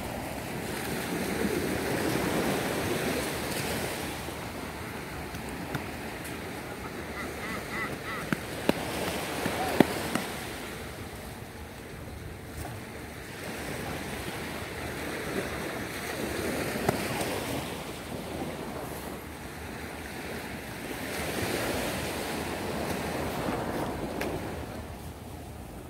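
Ocean surf: waves breaking and washing up the beach in slow swells every several seconds, with wind on the microphone. A few sharp knocks about ten seconds in.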